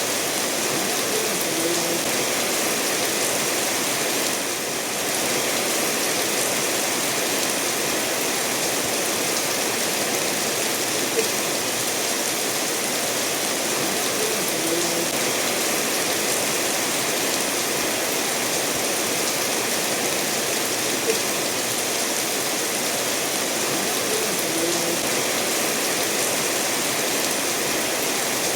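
Steady rainfall mixed with a stream running over stones: a continuous even hiss of water, with a couple of faint ticks.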